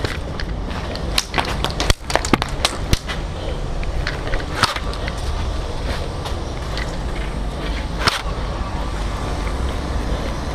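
Irregular sharp clicks and snaps of an airsoft game, gun shots, BB hits and gear clatter, thickest about one to three seconds in, over a steady low rumble of movement and microphone noise.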